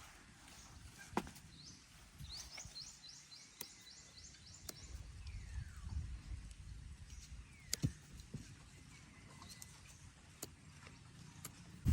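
Quiet outdoor ambience with a low rumble. A bird gives a quick run of about eight short, high chirps between about two and four seconds in, and a few sharp clicks sound here and there.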